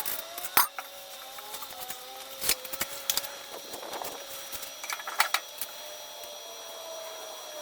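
Intermittent sharp metal clicks and knocks from hand tools being worked, the loudest about half a second in, with more around two and a half, three and five seconds.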